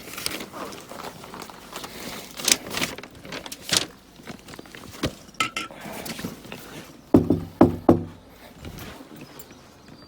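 Footsteps and scattered thuds, then three quick knocks on a door about seven seconds in.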